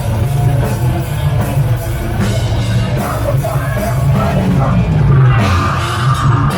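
Heavy metal band playing live at full volume, with a yelled vocal over dense, driving drums and amplified instruments.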